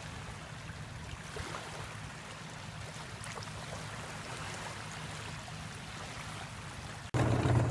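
Shallow lake water lapping and trickling, with a steady low hum beneath. Near the end a louder steady low hum starts abruptly.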